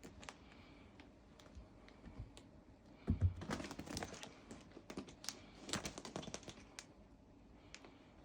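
Cats' claws clicking and scratching as they climb, in irregular light clicks that come thickest in the middle, with a soft thump about three seconds in.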